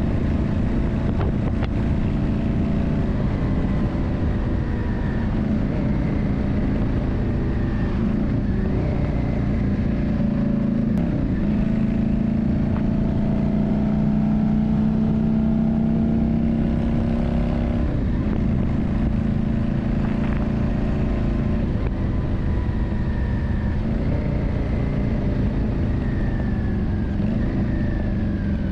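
Yamaha Drag Star 400's V-twin engine running steadily, its note dipping briefly and picking back up twice.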